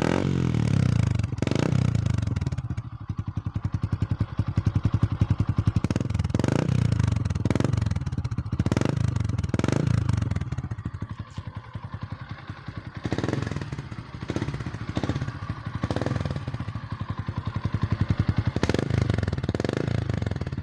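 Yamaha Sniper 150's single-cylinder four-stroke engine running through an aftermarket Spyker exhaust pipe, idling and blipped again and again with short throttle revs. About halfway through it settles into a quieter idle for a few seconds before the blips resume.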